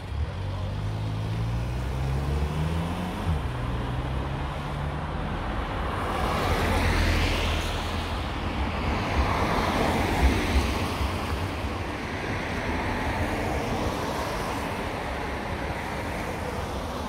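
Koenigsegg Gemera's engine starting up, its pitch climbing for about three seconds, then dropping and holding steady. In the middle, a car passes on the wet road with a swelling rush of tyre and engine noise, the loudest part, before it settles back to steady street noise.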